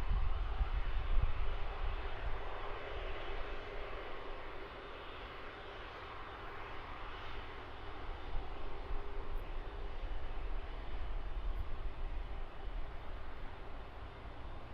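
Airbus A330-200 jet engines running steadily at low power, a continuous hiss with a faint steady hum. Low rumble from wind on the microphone, strongest in the first couple of seconds.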